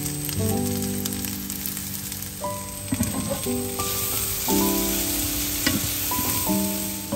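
Broccoli and grated garlic sizzling in oil in a frying pan, with a wooden spatula stirring and scraping through it and a few sharp ticks. Background music with held notes plays along.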